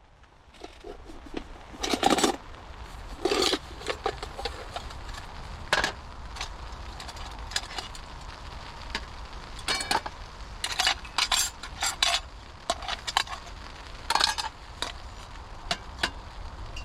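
Camp cookware and utensils clinking and scraping in irregular clatters, as food is got ready, over a steady low rumble.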